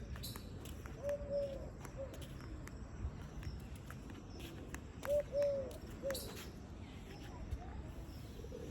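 A dove cooing: short, low hooting notes in small groups about a second in and again around five and six seconds in, over a faint outdoor background with scattered light clicks.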